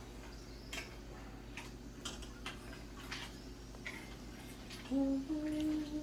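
Irregular sharp clicks and crackles as green plantain chips fry in hot oil. Near the end, a person hums a couple of short notes.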